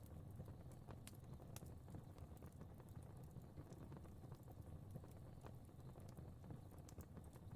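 Faint fire crackling, with irregular small pops and snaps over a low, steady rumble of flames.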